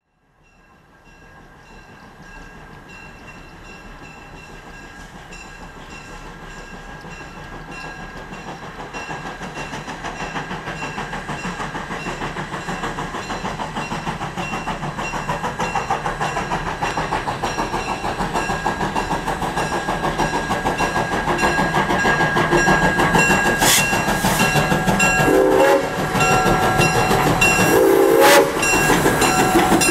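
Steam locomotive No. 610, a 2-8-0 Consolidation, running with a fine rhythmic clatter that grows steadily louder throughout as it approaches. A few short pitched sounds come near the end.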